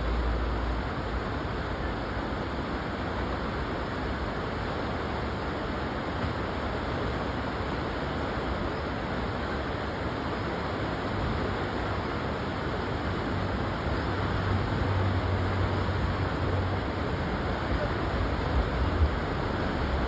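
Steady rushing of a fast river's white water, an even hiss with no breaks, with some low rumbling bumps in the second half.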